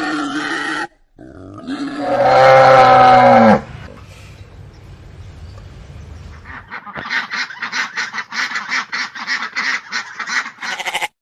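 Animal calls: one loud drawn-out call that drops in pitch at its end, then after a pause a rapid series of short calls, about four a second, that stops abruptly.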